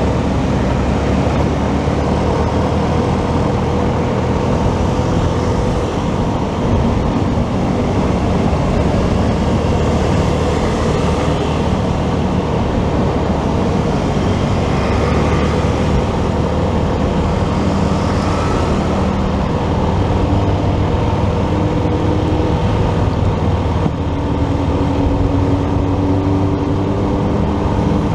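Motorcycle being ridden through traffic: steady engine and road noise, with a few faint tones shifting in pitch now and then.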